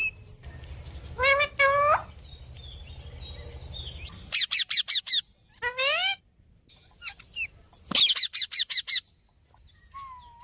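Parrot calling: two wavering squawks about a second in, then two fast runs of sharp, high chirps, around four and eight seconds in, with a single rising call between them.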